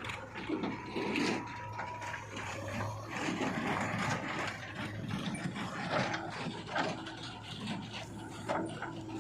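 JCB 3DX backhoe loader working: a steady low engine hum under irregular rattling, clanking and scraping.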